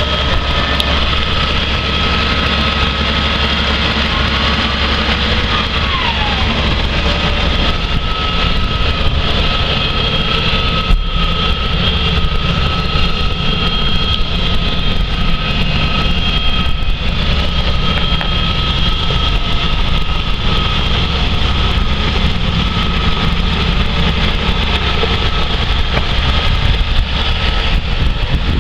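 2012 Case IH 225-horsepower tractor's diesel engine running steadily: a deep, even rumble with a steady high whine over it.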